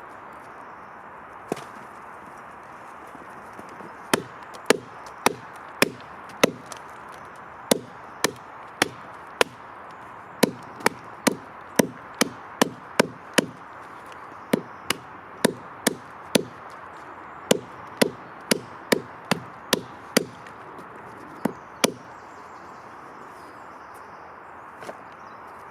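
A hand tool striking wood in sharp knocks, about thirty of them in runs of roughly two a second, stopping a few seconds before the end, over a steady hiss.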